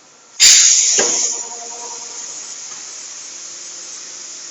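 Compressed air blasting out with a sudden loud hiss about half a second in, easing after about a second into a steady hiss.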